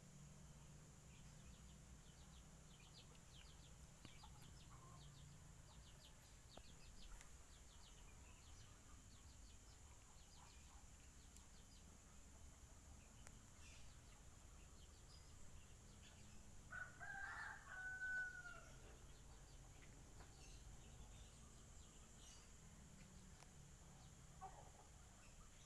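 A rooster crowing once, faint against a quiet background, about two-thirds of the way through; faint high chirps and a low hum come earlier.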